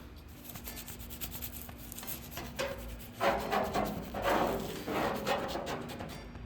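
Irregular rubbing and scraping as car trim pieces are handled and fitted, louder from about three seconds in, over a steady low hum.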